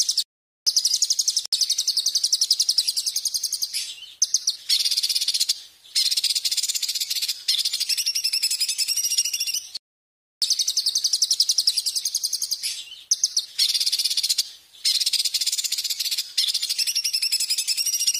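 A songbird's shrill, rapid buzzing trills, high-pitched, in phrases of one to two seconds separated by short breaks; the same sequence of phrases starts over about ten seconds in, as a looped training recording.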